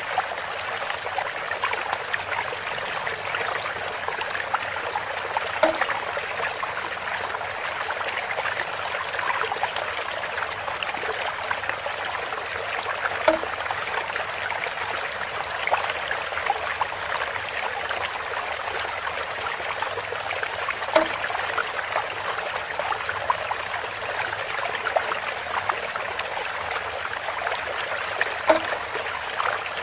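Water trickling steadily through a bamboo spout, with a brief louder splash or knock recurring about every seven and a half seconds.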